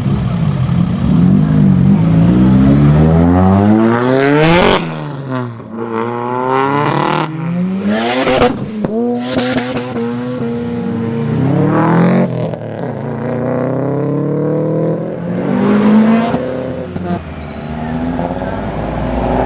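A tuned Nissan Silvia's engine revving hard, the revs climbing and dropping again and again with gear changes and throttle lifts, as in a drift run. Several short, loud bursts of harsher noise break in along the way.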